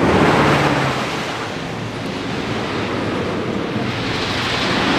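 Wind buffeting the microphone: a loud, steady rush of noise that swells near the start and again near the end.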